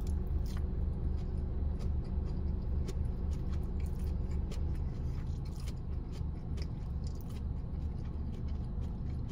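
A person chewing a mouthful of chow mein noodles, with many small wet mouth clicks, over a steady low hum in the car.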